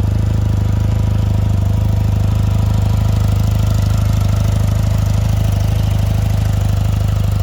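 BMW R100RS's air-cooled flat-twin (boxer) engine idling at a steady, even beat.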